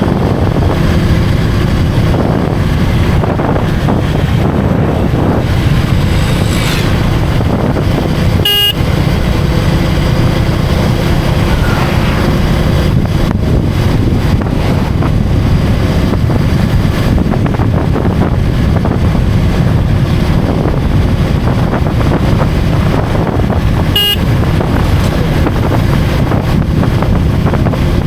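Motorcycle engine running steadily under way, mixed with wind and road noise while riding through traffic. Two brief beeps cut through, about eight seconds in and again about sixteen seconds later.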